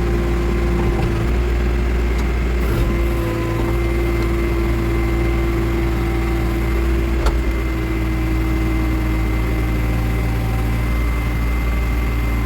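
Backhoe loader's diesel engine running steadily with a constant whine over the drone, and a single sharp click or knock a little past the middle.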